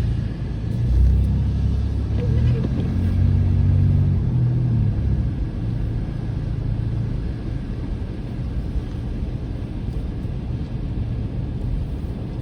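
Car engine and road rumble while driving in traffic, heard from inside the cabin. The low engine tones shift during the first few seconds, then settle into a steady rumble.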